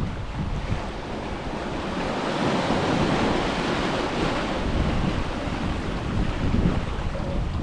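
Ocean surf breaking and washing up the beach, one wash swelling and fading in the middle, with wind buffeting the microphone as a low rumble.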